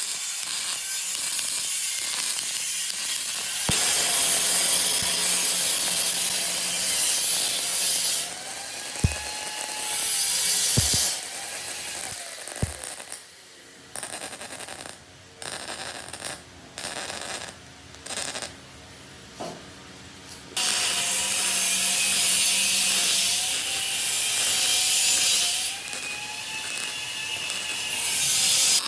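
A power tool working on a metal drum, running in long loud stretches with a pitch that dips and rises as the tool is loaded. Around the middle it comes in short bursts with brief pauses between.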